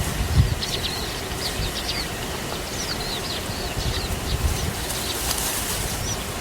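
Small birds chirping in a quick run of short, high chirps and downward-sliding notes, over a low rumble.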